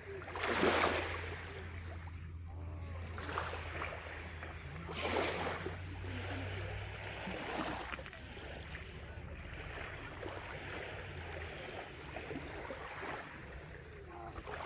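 Water splashing and lapping around a stand-up paddleboard, with louder swishes about a second in and again about five seconds in. A low steady hum underneath stops about eleven seconds in.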